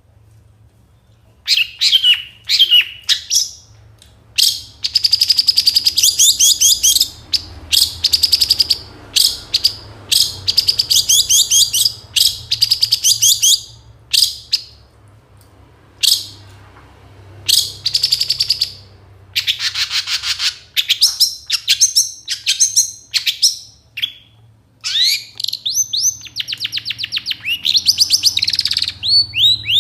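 Long-tailed shrike (cendet/pentet) singing a busy song full of mimicked phrases: quick runs of high, rapidly repeated chirps and trills, broken by short pauses, starting about a second and a half in.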